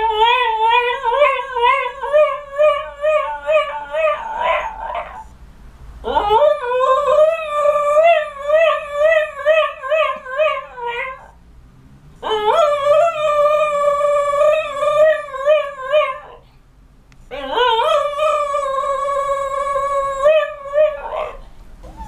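A cocker spaniel howling: four long howls with a wavering pitch, each lasting about four to five seconds, with short pauses between them.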